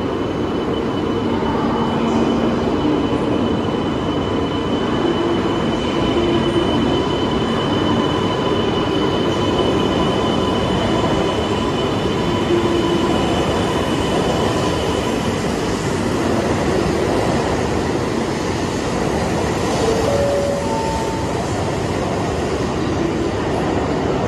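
E2 series Shinkansen cars rolling past along the platform as the train pulls away from the station: a loud, steady running noise of wheels and motors, with a faint steady high whine through most of it.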